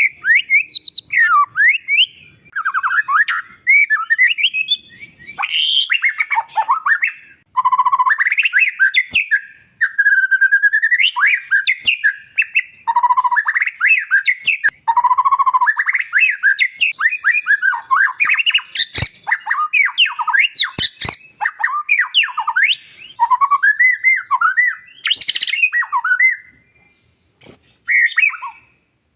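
White-rumped shama (murai batu) singing a long, varied song of loud whistled phrases that glide up and down, broken by short pauses, with a few sharp clicks among them.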